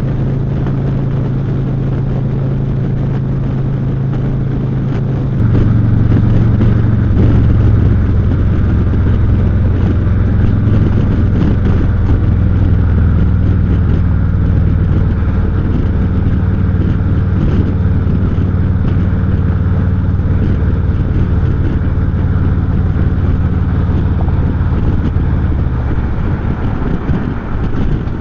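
Harley-Davidson Street Glide Special's V-twin engine running under way at cruising speed; about five seconds in it gets louder and its pitch drops as the throttle opens, then it holds steady, easing off slightly near the end.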